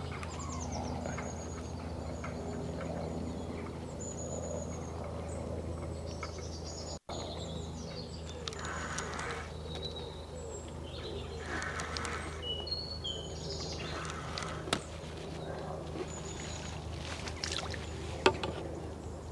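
Small birds chirping in short high calls on and off, over a low steady hum. A few sharp clicks are heard, the loudest two about fifteen and eighteen seconds in.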